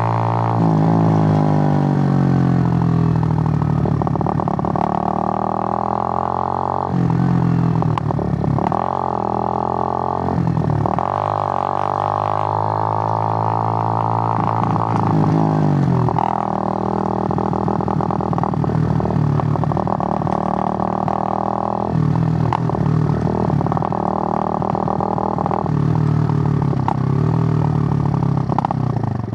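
Suzuki GN125's single-cylinder four-stroke engine droning under way. The pitch falls at first, then holds. Several brief breaks and pitch changes through the ride are gear changes or throttle lifts.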